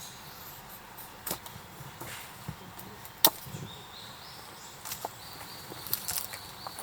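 Firewood being split: a handful of sharp wooden knocks a second or two apart, the loudest about three seconds in.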